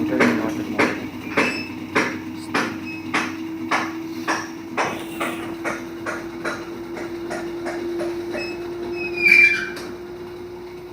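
LG front-load washing machine running with a steady hum and a knock repeating about one and a half times a second, the knocks fading later on, with a brief high squeal about nine seconds in. This is the noise the machine makes while driving the drum, reported by the customer as a fault.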